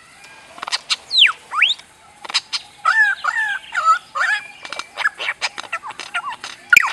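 A bird making laser-like sounds: sharp clicks and quick whistles that drop steeply in pitch, like a toy laser's 'pew', with a short warbling phrase in the middle. Near the end a rapid run of the falling whistles starts.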